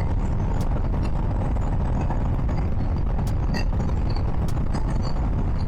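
Steady noise from riding a motorcycle: wind rushing over the helmet microphone, with engine and road noise underneath.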